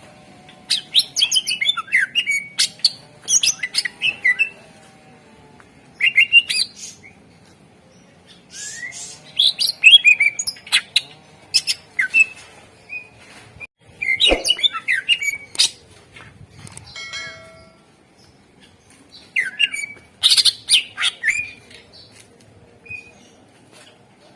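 Greater green leafbird (cucak ijo) singing: bursts of rapid, high chattering and sweeping phrases, each lasting one to four seconds, with short pauses between them.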